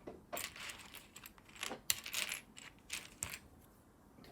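Loose plastic Lego pieces clicking and rattling against each other as a hand rummages through a pile of them, with clusters of sharp clicks that die away near the end.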